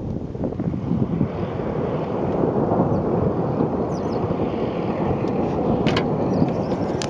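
Wind buffeting the microphone during a thunderstorm: a dense, steady low rumble, with two sharp clicks near the end.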